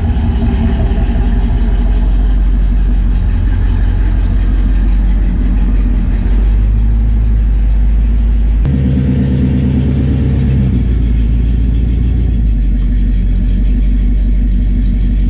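A cammed Pontiac 350 V8 running loudly through its custom exhaust, with a deep rumble. Its tone shifts abruptly about nine seconds in.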